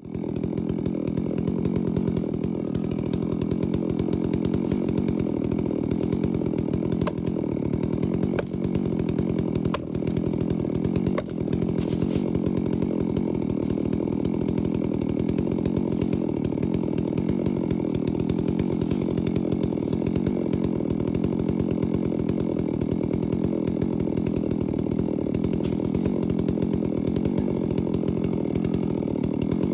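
Holzfforma G660 two-stroke chainsaw running steadily at high speed, cutting wood, with a few light clicks about 7 to 11 seconds in.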